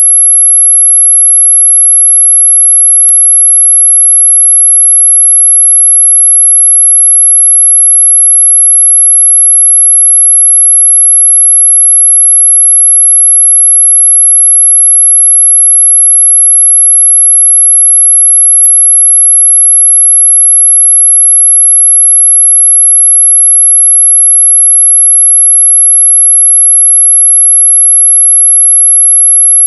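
Continuous high-pitched pure tone held at one steady pitch, an electronically generated 'anti-mosquito' repellent frequency, with faint clicks about 3 seconds and 19 seconds in.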